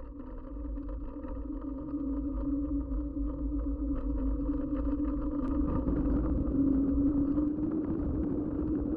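Riding noise from a mountain bike on the move: low wind rumble on the action-camera microphone under a steady hum. The sound swells over the first couple of seconds, and the rumble grows heavier about six seconds in.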